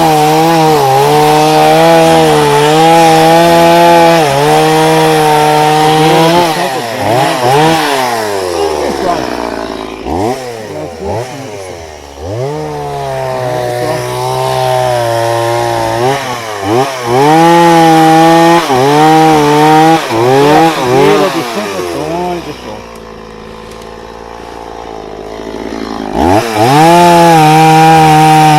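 Chainsaw cutting firewood logs. The motor runs at full throttle in long steady stretches, drops off and revs back up several times, and settles to a quieter idle for a few seconds near the end before revving up again.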